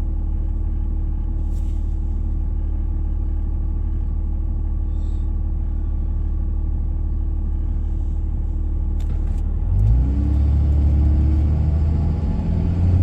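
Engine and road noise of a car heard from inside the cabin, a steady low drone while cruising. About ten seconds in the engine note rises and gets louder as the car accelerates.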